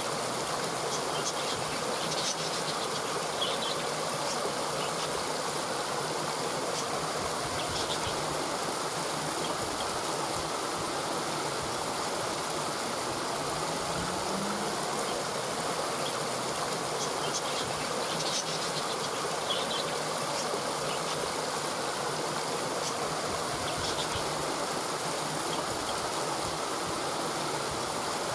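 A stream running steadily, with short high chirps every few seconds and a faint low rising hum about halfway through.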